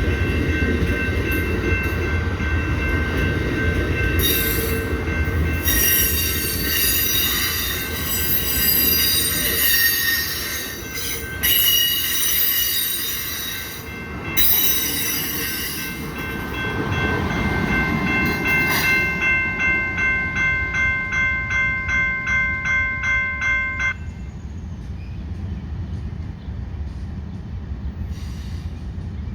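Amtrak California Zephyr passenger train rolling past slowly, with a steady low rumble and squealing wheels and brakes holding several high tones. About two-thirds in, a ringing pulses about twice a second for a few seconds, then cuts off, leaving a quieter rumble.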